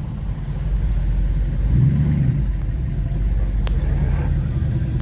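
A classic car's engine rumbling as it rolls past at low speed, with a single sharp click a little over halfway through.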